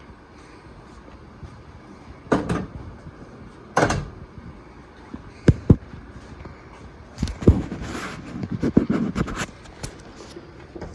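A string of sharp knocks and clunks over a low steady background hum. There are single knocks, then a quick pair, then a busy cluster of clicks and knocks near the end.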